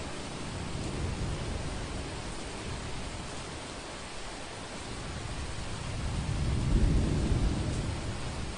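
Steady rain hiss with thunder rumbling low underneath: a soft roll about a second in, then a louder, longer rumble that swells about six seconds in and fades near the end.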